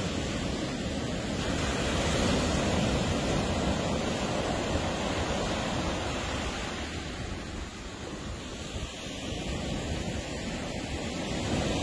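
Ocean surf breaking on a beach, a steady wash of noise that eases off about two-thirds of the way through and swells again near the end.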